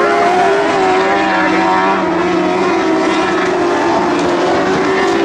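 Engines of several Lightning Sprint cars racing on a dirt speedway, with several engine notes overlapping and slowly shifting in pitch.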